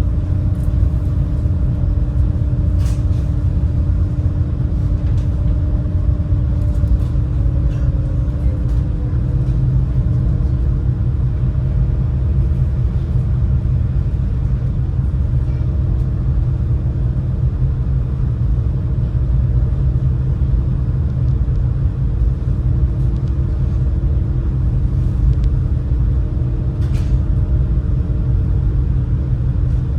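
The Super Jet high-speed passenger craft running steadily under way, heard on board as a loud, even low rumble with a steady hum over it.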